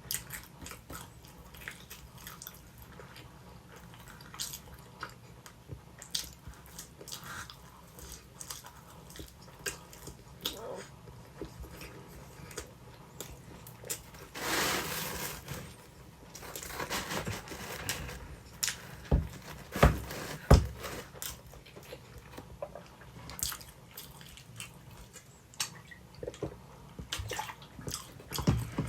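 Close-miked eating of sweet potato pizza: biting, chewing, small wet mouth clicks and crunches of crust. About halfway through there is a louder noisy stretch of a second or so, followed by a few low thuds.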